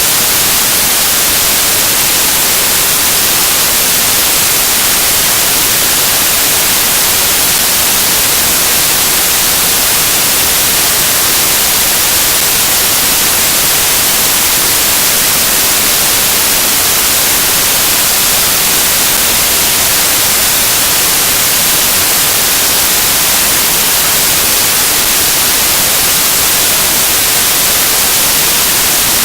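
Loud, steady static hiss, strongest in the high frequencies, with no speech or other events in it.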